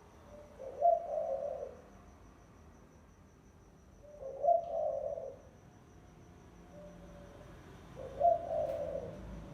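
Spotted dove, a decoy bird, cooing: three phrases of about a second each, repeated roughly every three and a half seconds.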